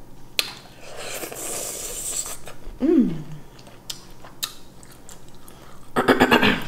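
Close-up mouth sounds of a person eating shrimp: chewing with a few wet clicks, a short falling voiced sound about three seconds in, and a louder brief vocal sound near the end.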